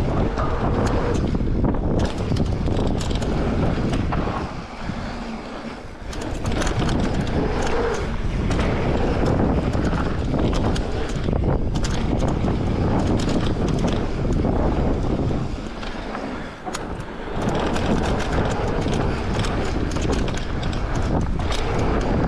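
Electric mountain bike riding down a dirt trail: wind rushing over the microphone and tyres rolling over the ground, with frequent rattles and knocks from the bike. The noise eases off twice, for a second or two each time.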